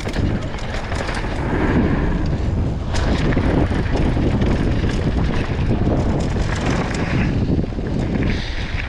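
Wind buffeting the microphone of a mountain bike's riding camera, a loud low rumble mixed with tyre roar and scattered clatters of the bike over rough trail.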